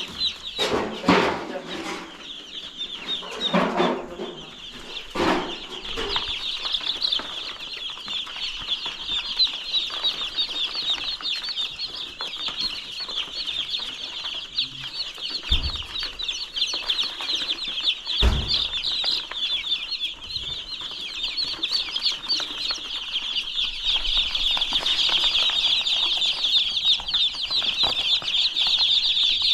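A flock of chicks peeping together, a dense continuous high chirping that grows louder near the end. There are a few louder sounds in the first six seconds and two dull thumps around the middle.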